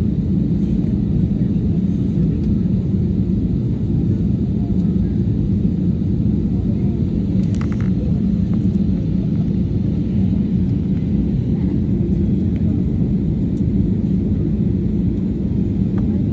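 Steady low rumble of an Airbus A320 cabin, still before pushback. There is a brief click about seven seconds in.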